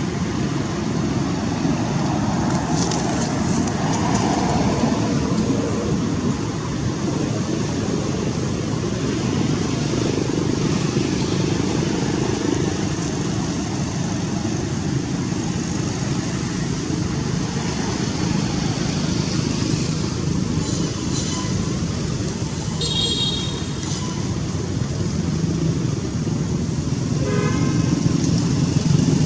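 Steady low rumble of background noise, with two short high-pitched sounds near the end.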